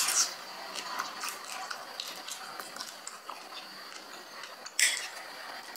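Close-miked chewing of a mouthful with a crisp green vegetable: a run of small crunches and wet mouth clicks, with a brief louder burst about five seconds in.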